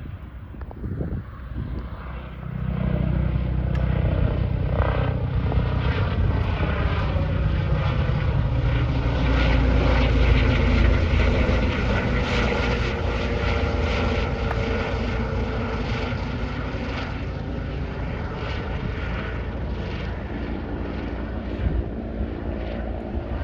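Helicopter flying overhead: the rotor and engine noise swells suddenly about two seconds in, is loudest near the middle, then slowly fades, its engine tones falling in pitch as it passes.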